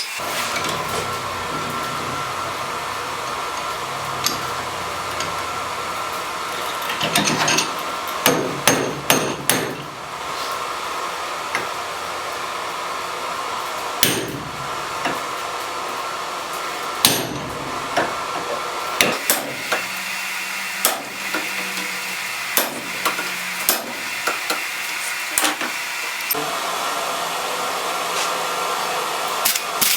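Blacksmith's hammer striking metal on an anvil in irregular clusters of sharp, ringing blows, over a steady hum.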